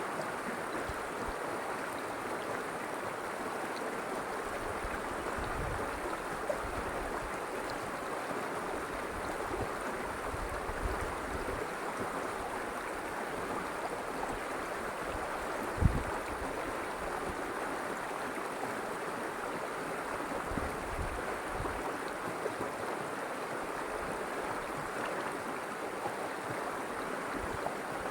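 River water flowing steadily, a continuous rushing and babbling. A few short low thuds break in, the loudest about 16 seconds in.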